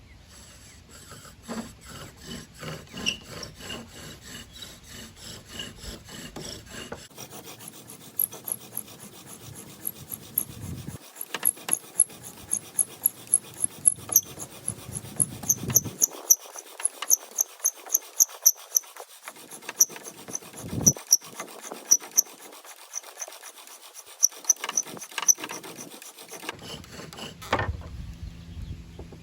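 Bow drill friction fire: the wooden spindle is spun back and forth by the bow in the fireboard's notch, with a rhythmic rubbing and a squeak on every stroke. About seven seconds in the strokes get faster and harder, as happens when the drill is pushed to build up an ember from the hot wood dust. The strokes stop near the end.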